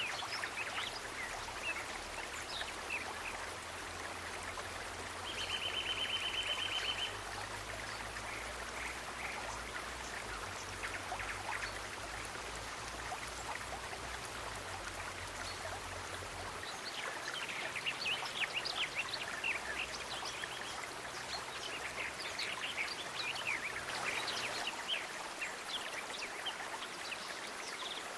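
Running stream with a steady rush of water, and birds chirping over it in quick flurries of short notes, busiest in the second half. A short buzzy trill sounds about five seconds in.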